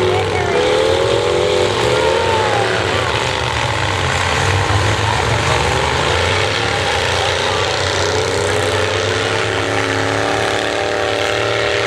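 Several demolition derby cars' engines revving in a heat, their pitch rising and falling over each other against a steady din.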